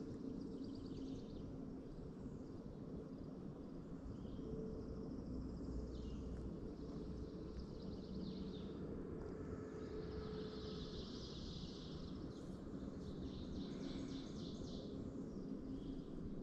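Outdoor ambience with small birds singing: repeated chirps and quick trills, busiest in the second half, over a steady low background noise.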